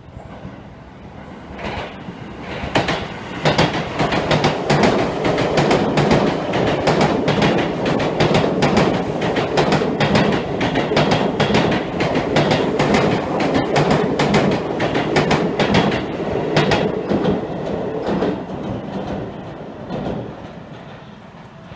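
Seibu Railway 20000 series electric train running past the platform, a fast run of wheel clicks over a steady rumble that builds up, holds and fades away as it recedes.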